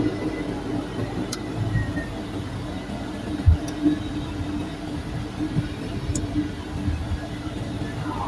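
Pratt & Whitney PT6A-66D turboprop engine of a TBM 930 running steadily at low power during a ground engine run, a constant drone with a steady hum. A single short thump about three and a half seconds in.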